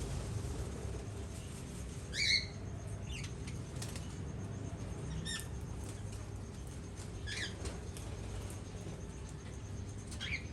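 Small aviary birds giving short, high chirps every second or two, the loudest about two seconds in and another near the end, over a steady low background hum.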